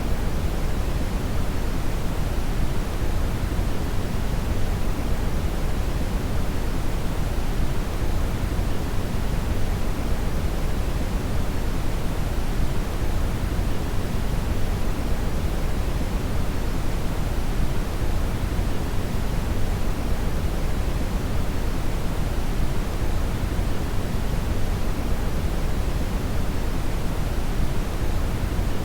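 Steady brown (red) noise: an even, deep rushing hiss, strongest in the bass and softer toward the highs, unchanging throughout.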